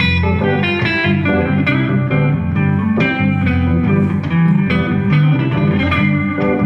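Live band playing an instrumental passage led by electric guitar over bass and a steady beat, in a bluesy style.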